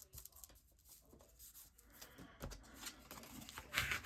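Paper rustling and light tapping as sheets and scraps are handled and laid down, sparse at first and busier in the second half, loudest near the end.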